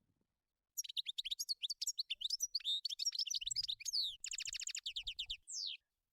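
European goldfinch singing: a quick, twittering run of varied high chirps with a fast trill about four seconds in, ending on a single falling note.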